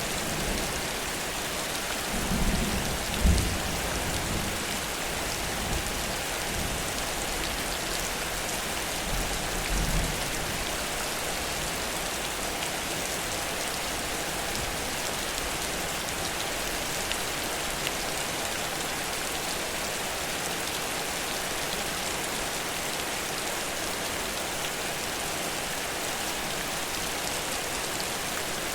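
Heavy rain falling steadily, an even hiss with no let-up. Low rumbles come about two to four seconds in, with a sharp thump among them, and again about ten seconds in.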